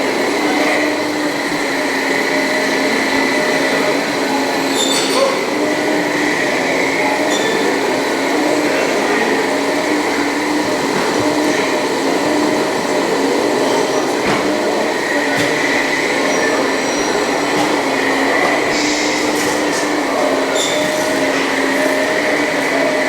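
Electric motors and gear drives of radio-controlled scale construction models whining steadily, the pitch wavering slightly as the machines work, with a small click about five seconds in.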